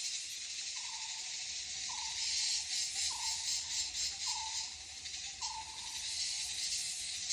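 Forest insects chirring steadily in a dense, high-pitched, finely pulsing chorus. Over it, a short falling call repeats about once a second, six times.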